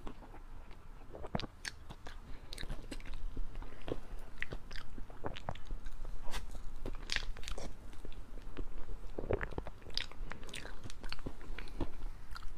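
Close-miked chewing of chocolate mousse cake with berry jam filling: irregular wet mouth clicks and smacks, several a second, right at a clip-on microphone.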